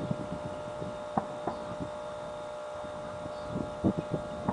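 Fireworks bursting at a distance: scattered dull thumps and crackles, with a cluster of louder bangs near the end, over a steady faint hum.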